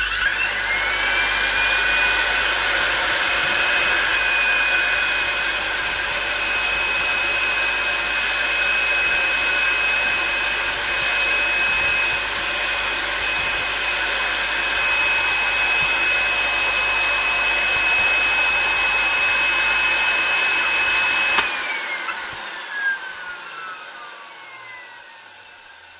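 1983 National Panasonic Jet-Flo MC7540's 1300 W vacuum cleaner motor, running bare out of its housing while its dirty commutator is skimmed clean with a commutator stone. It is switched on and spins up with a rising whine, runs steadily at full speed, then is switched off near the end and winds down with a falling whine.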